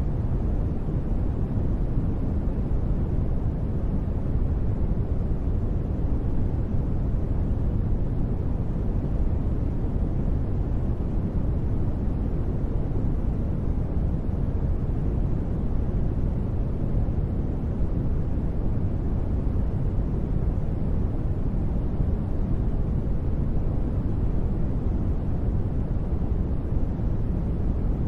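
Continuous synthetic noise for sleep, steady and unchanging, with most of its weight in the low tones so it sounds deep and rumbling (closer to brown noise than bright white hiss).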